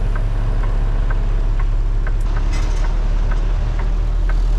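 Semi-truck diesel engine running steadily at low revs, with a faint regular ticking about twice a second.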